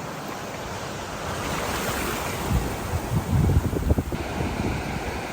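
Ocean surf washing steadily on the shore, with wind buffeting the microphone in heavy low gusts from about halfway through.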